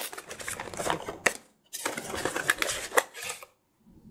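A small cardboard CPU retail box and its paper inserts being opened and handled: rustling with sharp little clicks and taps, in two stretches of a second or two each.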